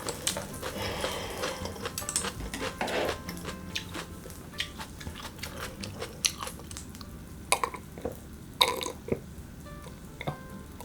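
Close-up eating sounds of chewy grilled beef tripe being chewed, with wet mouth noises and scattered sharp clicks of utensils.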